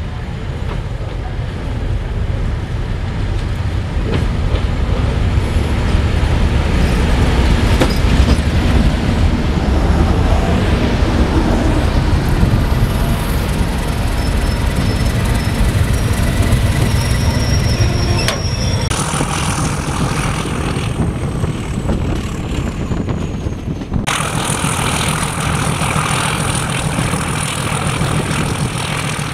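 Diesel locomotive and its coaches passing close by at a station platform, the engine's deep rumble swelling as it draws level and the wheels running on the rails. Near the end, a train running along the line, heard from an open carriage window.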